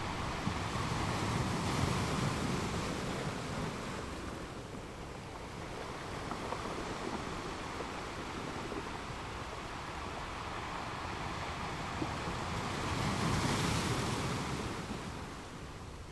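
Atlantic surf breaking and washing up the beach, a steady rush that swells twice: once in the first few seconds and again near the end. Wind buffets the microphone underneath.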